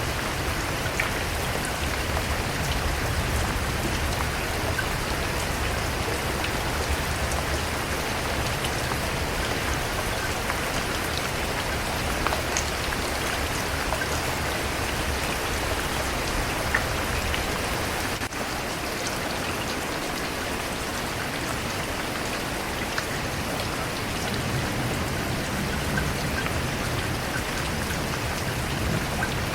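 Steady rainfall, a dense even hiss of rain with scattered individual drops ticking on a surface and a low rumble underneath.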